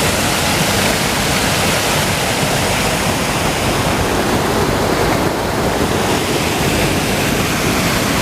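Waterfall rushing: a steady, loud noise of falling water.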